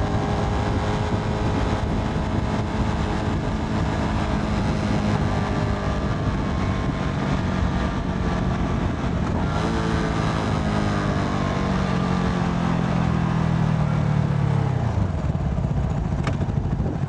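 Motorcycle engine under way, with wind rush over the rider's helmet microphone, most likely the CFMoto 300NK's single-cylinder engine. The engine note sags slowly at first and climbs again about ten seconds in as the throttle opens. It falls off sharply near the end as the throttle closes.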